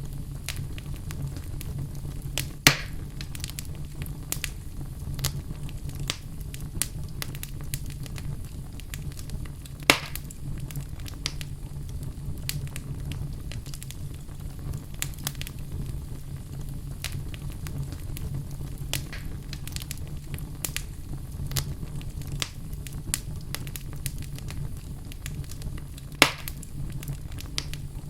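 Wood fire burning in a fireplace: a steady low rumble of flames under frequent small crackles, with three louder pops from the burning logs.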